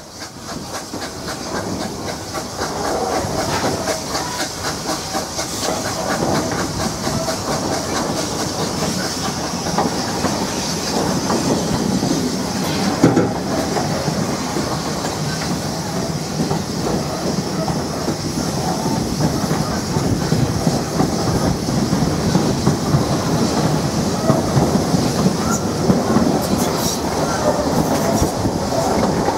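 Narrow-gauge steam-hauled train carriage running along the track, heard from aboard: a steady rumble of wheels on rail with a rapid clickety-clack that builds up over the first few seconds, and one sharp knock about 13 seconds in.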